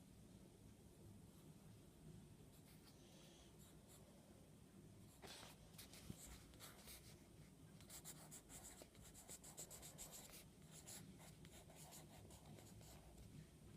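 Faint strokes of a drawing tool on paper, short quick scratches that start about five seconds in and come thickest a few seconds later, over a low room hum.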